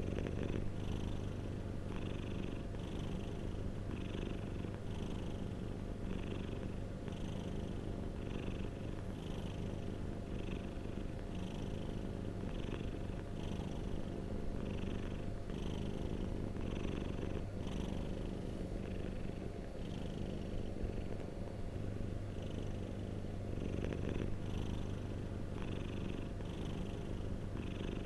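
Domestic cat purring steadily and close up, a continuous low rumble with a regular rhythm of breaths.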